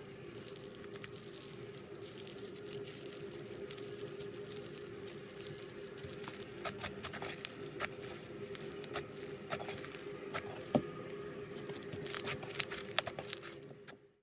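Slime being squished and pressed by hand, giving sticky clicks and small crackling pops that come thicker and louder through the second half, over a steady low hum.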